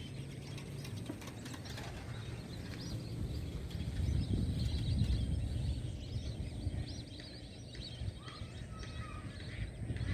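A chorus of birds calling, many rapid short chirps overlapping, with a few lower calls near the end, over a low rumble that swells in the middle.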